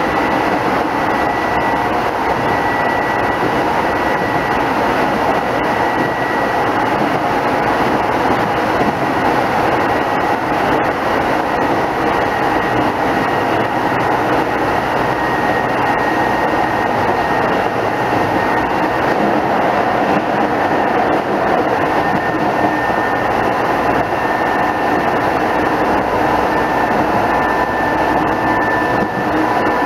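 Running noise of a Keisei 3500 series electric train heard inside the passenger car: a steady rumble of wheels on rails, with a thin high whine that drifts slightly lower over the span.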